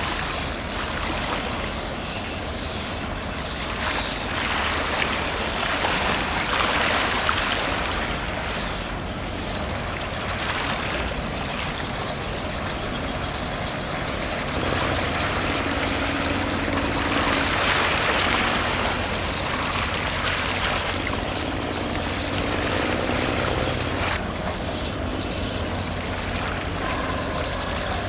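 Low, steady rumble of a large container ship under way, with the rushing wash of water from its wake; the wash swells louder twice, about five seconds in and again past the middle.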